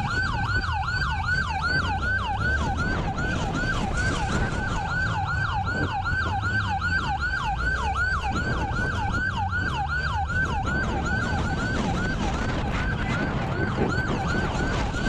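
Police car siren on a fast yelp, about five sweeps a second, over steady road and engine noise.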